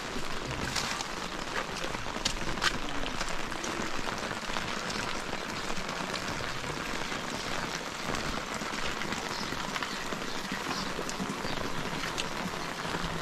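Heavy rain falling steadily as an even hiss, with scattered louder drops ticking on nearby surfaces.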